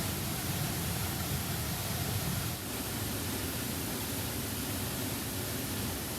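Rushing river water, a steady full noise with a heavy low rumble, from a river swollen by rain. The low rumble eases slightly about two and a half seconds in.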